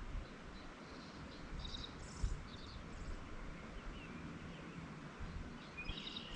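Quiet outdoor ambience: a steady background hiss with a few faint, high bird chirps in short clusters, and a single low thump about two seconds in.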